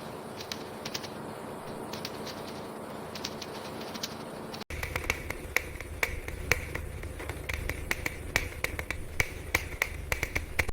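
Irregular sharp clicks and taps over a steady background. About halfway through, the sound changes abruptly to denser, louder clicking over a low rumble.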